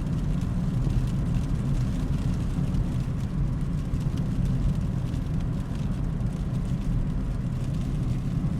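Steady low rumble inside a Subaru's cabin while driving on a snowy road: engine, tyre and wind noise, unchanging throughout.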